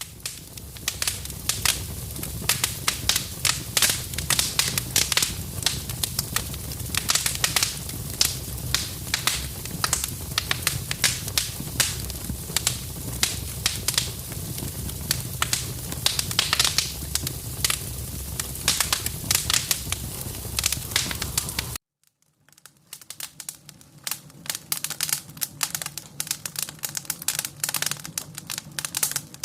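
Burning wood fire crackling and popping, with dense irregular pops over a low rumble. About 22 s in it cuts off, and after a short gap a different fire crackles, with less rumble underneath.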